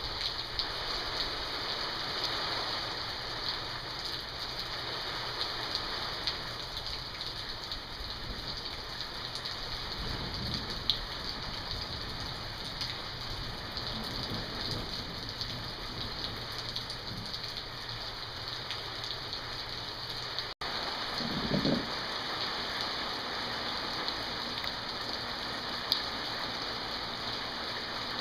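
Heavy rain pouring down steadily in a thunderstorm. A brief low rumble comes about a third of the way in, and another about three-quarters of the way through.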